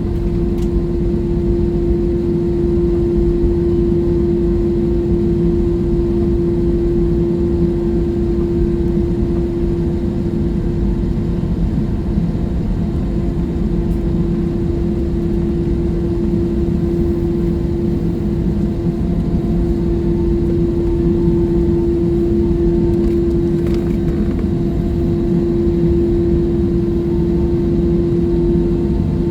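Airliner cabin noise: the jet engines and airflow make a steady, loud rush with a constant droning hum, heard from inside the passenger cabin.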